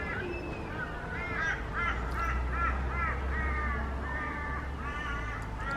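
A bird calling in a long run of short repeated notes, about three a second, the later notes drawn out longer and flatter, with a fresh burst of calls near the end.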